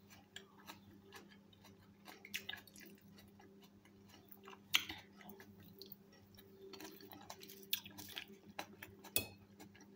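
Eating crisp lettuce salad: quiet chewing and crunching with scattered small clicks of a metal fork on a china plate, two sharper clicks about halfway through and near the end.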